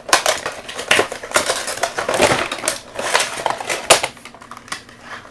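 Funko Pop figure being taken out of its cardboard box and plastic insert: a busy run of crinkling, scraping and sharp clicks, easing off about four seconds in.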